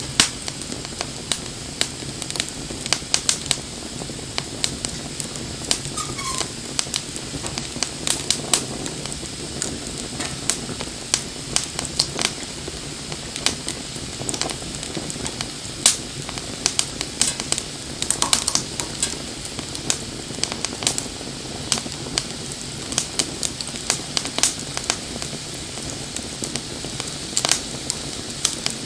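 Wood campfire burning, crackling with many sharp, irregular pops over a steady hiss of the flames.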